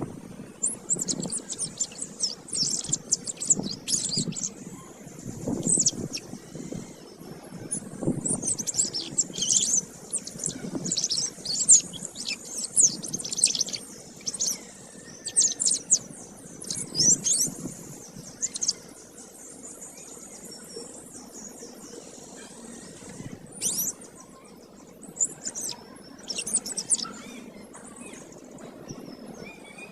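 Domestic canary singing vigorously in fast, rolling high trills and chirped phrases. The song breaks off for a few seconds about two-thirds of the way through, then resumes in shorter phrases.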